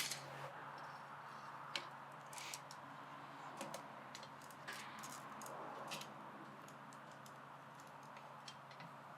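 Faint steady hum of a generator running, with a handful of scattered light clicks and ticks.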